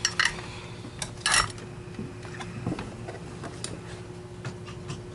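Small metal tools and parts clinking and tapping on a workbench: a few sharp clinks in the first second and a half, then scattered light taps.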